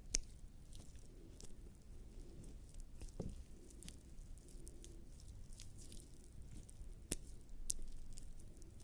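Bare skin slick with lubricating jelly rubbing and pressing against a microphone, making soft wet squishes and sticky clicks. The sharpest clicks fall right at the start, a little after three seconds, and about seven seconds in.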